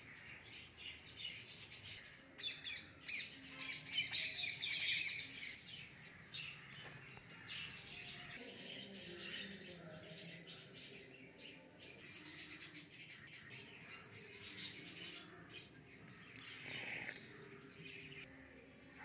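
Birds chirping, a dense rapid twittering that is loudest a few seconds in and then comes and goes in patches.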